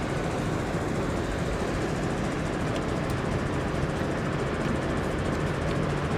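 Steady rumbling noise of a moving train, even throughout with no distinct beat.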